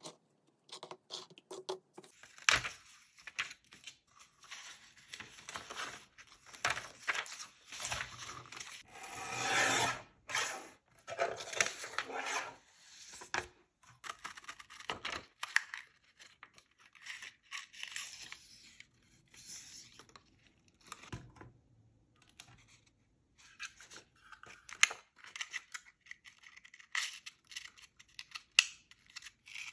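Paper being handled and worked by hand: irregular rustles, scrapes and crinkles in short bursts, with a longer, louder stretch about ten seconds in.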